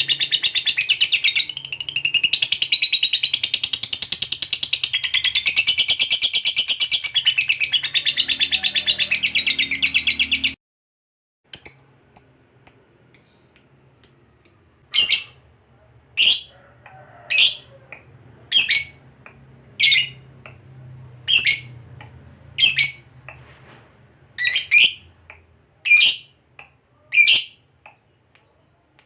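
Lovebird ngekek: a long, unbroken, very rapid chattering trill that wavers in pitch and cuts off about ten seconds in. After a moment's silence come short, sharp single chirps, about one a second.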